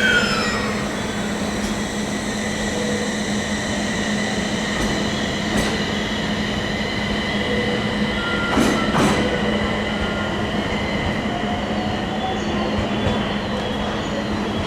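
Train moving through a station platform, with steady high-pitched squealing from the wheels on the rails over a steady low hum. There is a short falling tone at the start and a brief rattle about nine seconds in.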